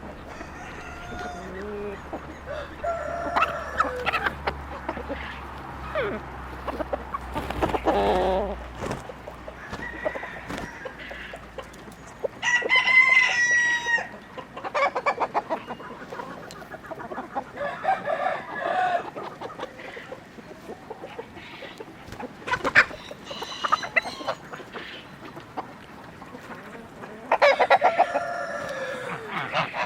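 Chickens clucking and calling on and off, in rapid runs of clucks, with a rooster crowing about halfway through.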